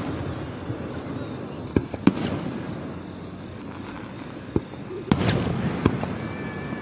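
Aerial fireworks bursting: a run of sharp bangs, each with a rumbling echo, the loudest a little past the midpoint.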